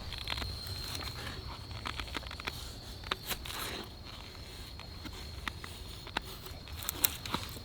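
Irregular small clicks and knocks over a faint steady high-pitched tone, with a sharper click about three seconds in and another near the end.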